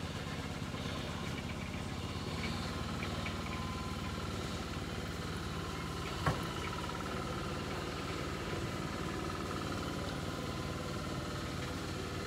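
An engine idling steadily, with one sharp click about six seconds in.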